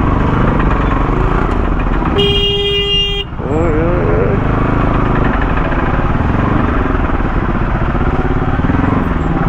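Motorcycle engine running while riding, with wind and road noise. About two seconds in, a vehicle horn sounds one steady note for about a second.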